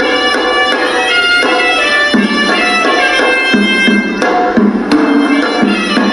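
Hewisi temple music: a reedy horanewa pipe plays a stepping melody over fast, steady drum strokes.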